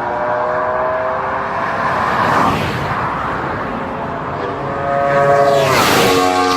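V4 superbike engine at high revs, its pitch climbing slowly, with a rush of exhaust noise as a bike passes about two and a half seconds in and a louder pass near the end where the pitch drops.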